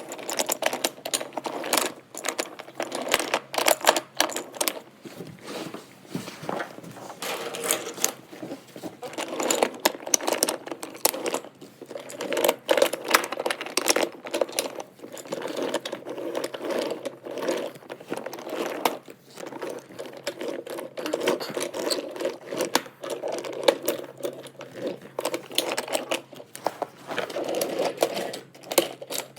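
Small electric motor of a battery-powered toy train whirring steadily as it runs along the track, with continual clicking and rattling of wheels and cars over the rails.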